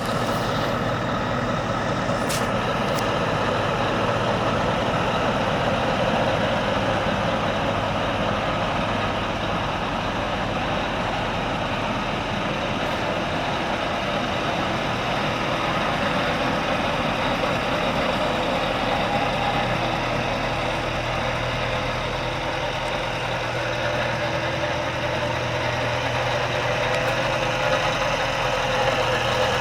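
Scania S730's V8 diesel engine idling steadily.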